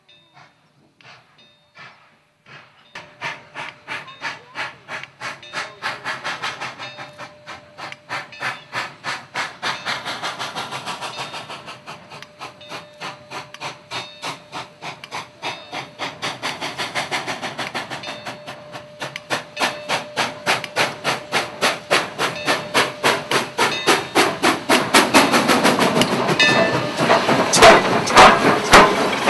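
Ex-Canadian National 4-8-2 steam locomotive No. 6060 working steam: a steady rhythm of exhaust chuffs over a hiss, growing louder toward the end.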